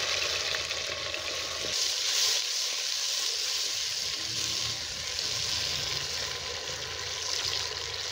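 Chopped tomatoes sizzling in hot oil in a metal cooking pot, stirred with a wooden spatula. The sizzle gets stronger about two seconds in.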